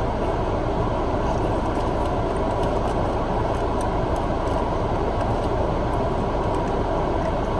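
A car's steady running noise, heard from inside the cabin, unchanging throughout.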